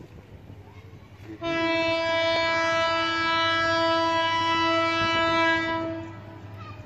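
Diesel locomotive horn sounding one long steady blast of about four and a half seconds, starting about a second and a half in, over a low steady hum.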